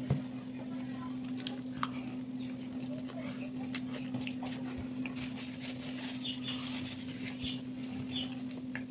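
A person eating: quiet chewing with a few small clicks, over a steady low hum.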